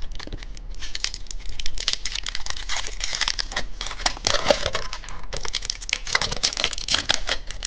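A candy wrapper crinkling and tearing as it is unwrapped by hand: a continuous run of irregular crackles and small snaps.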